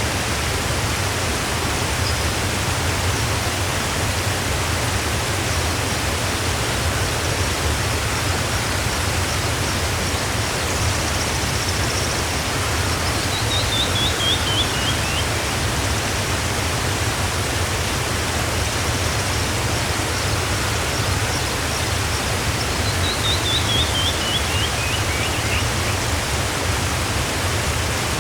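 Waterfall rushing in a steady, even roar of falling water. A bird twice sings a quick descending trill of short high notes over it, the first about halfway through and the second near the end, with faint high chirps in between.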